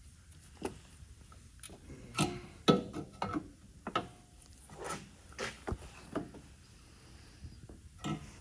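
Irregular knocks, taps and clicks of a part being struck by hand and pushed into place on its seal, with a few sharper knocks in the middle.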